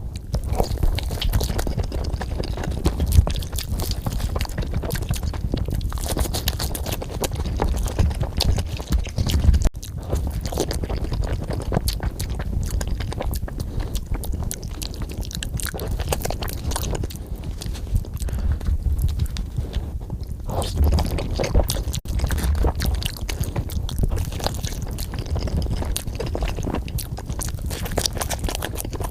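Close-miked chewing and biting of food, with continuous wet smacking and crunchy clicks.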